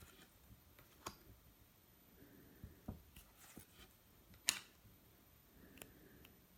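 Trading-card deck packaging and cards being handled: a few sharp clicks, the loudest about four and a half seconds in, with faint rustling between.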